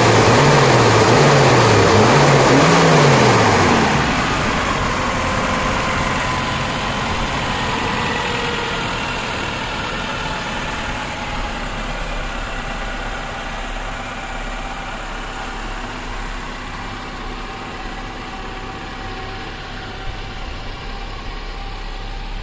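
Maruti Gypsy's 1.3-litre four-cylinder petrol engine revved by hand at the throttle in several quick blips over the first four seconds. It then drops back and idles steadily.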